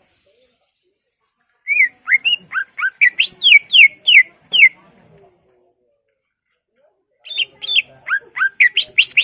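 Cucak ijo (greater green leafbird) singing: two quick phrases of loud whistled notes, each note a sweeping slur, first rising and then a run of falling notes about three a second, with a pause of a couple of seconds between the phrases.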